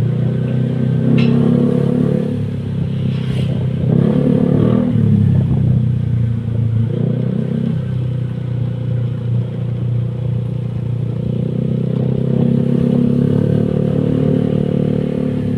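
Honda Vario 125 scooter's single-cylinder four-stroke engine running through an aftermarket R9 exhaust, held at a steady note with several brief revs.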